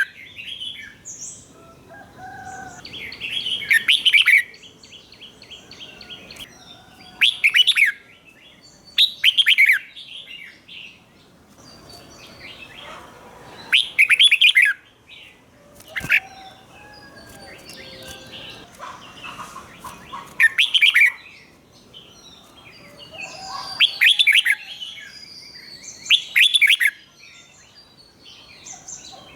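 Red-whiskered bulbul singing: short, loud, warbled phrases about every two to four seconds, with softer twittering between them. This is the 'double' (เบิ้ล) song style that keepers of caged bulbuls prize.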